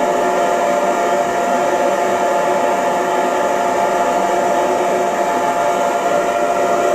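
Electric hair dryer running steadily: an even rush of air under a steady motor whine.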